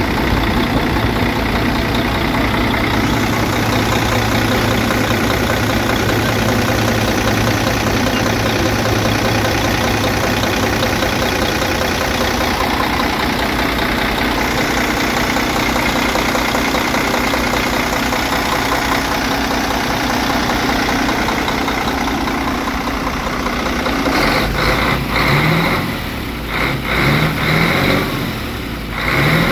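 Heavy diesel truck engine idling steadily, a dense even drone; in the last few seconds the sound turns uneven with a few short rises and dips.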